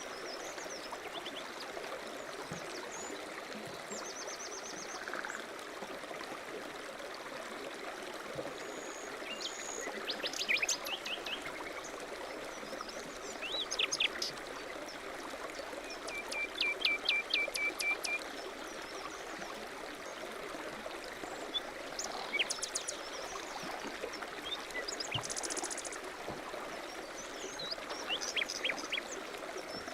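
A small stream running steadily, with several songbirds chirping and trilling over it, calls coming every few seconds.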